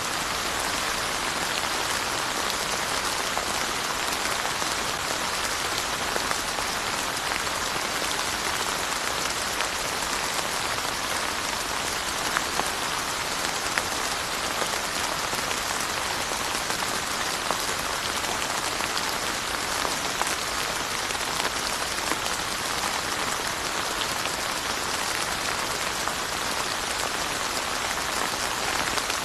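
Steady, even rainfall with many close drop ticks, a dense hiss of rain falling on surfaces.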